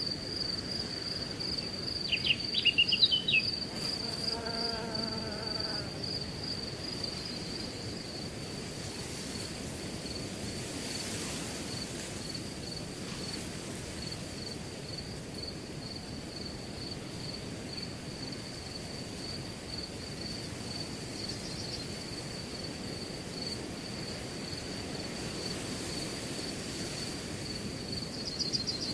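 Crickets chirping in a steady, rapidly pulsing high trill over a low rush of wind through grass. Two to six seconds in, a few quick bird chirps and then a short lower call stand out as the loudest moments.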